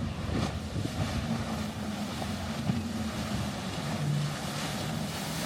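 A passing motorboat's engines running, a low steady drone, with wind noise on the microphone.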